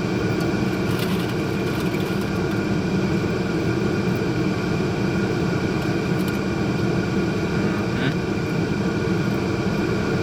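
Steady, unbroken hum of an idling vehicle engine, with constant droning tones and no change in pitch.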